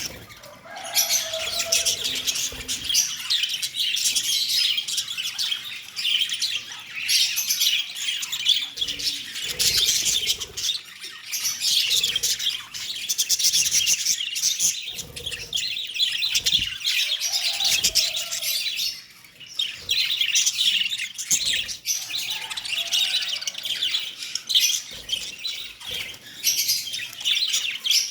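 Pet lovebirds chirping and chattering rapidly and continuously in high-pitched calls, with a brief lull about two-thirds of the way through.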